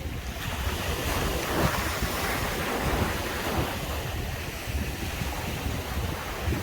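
Sea surf on a beach: a wave breaks and washes up about a second in, swells for a couple of seconds and then fades back to a steady wash. Wind buffets the microphone with a low rumble throughout.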